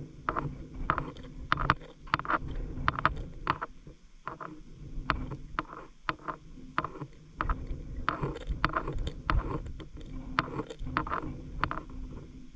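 Water splashing and sloshing in short, irregular splashes, a few a second, over a low rumble, with a brief lull about four seconds in.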